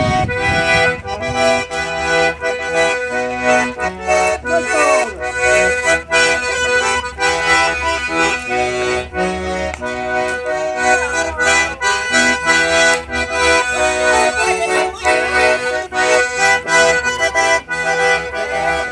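Accordion (sanfona) playing live dance music, held chords and melody changing every second or so over a regular beat.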